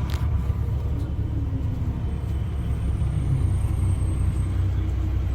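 Straight-piped Cummins C8.3 inline-six diesel in a 1995 Carpenter school bus, running with a steady low exhaust rumble. A single sharp click comes just after the start.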